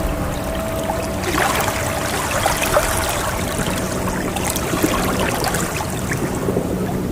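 Ocean waves washing in, swelling a little about a second in. A singing bowl's faint ringing tone fades out in the first couple of seconds.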